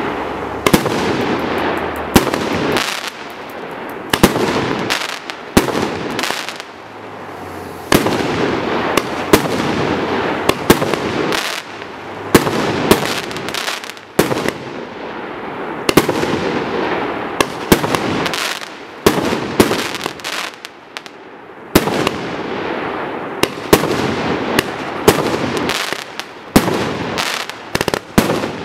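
A 1.2-inch, 25-shot consumer fireworks display cake firing: loud launch bangs and aerial bursts in quick succession, with runs of rapid small pops between them.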